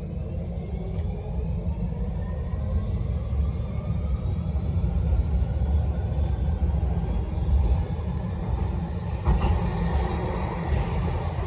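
Metro train running, with a steady low rumble and a motor whine that rises in pitch as it picks up speed.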